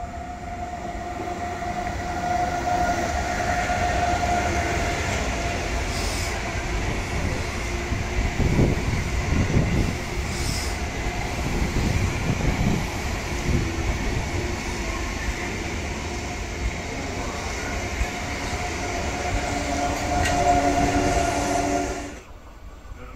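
Electric passenger train running past on the track: a steady rumble of wheels and running gear with a high tone held at one pitch over it, and a few heavier thumps in the middle. The sound cuts off suddenly near the end.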